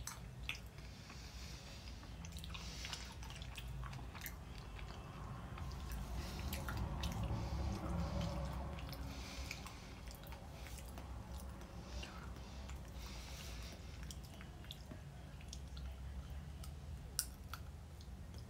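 Close-up chewing of a white creme candy bar with sprinkles and popping candy, with many scattered sharp clicks and crackles through it. The crackling is the popping candy going off in the mouth.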